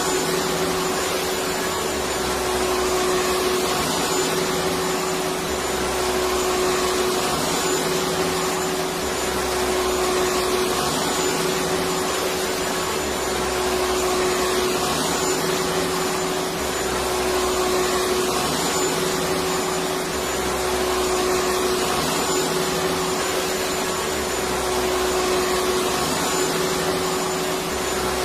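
Electric vacuum cleaner running steadily: a continuous motor and airflow noise with a steady hum, swelling slightly in level about every two and a half seconds.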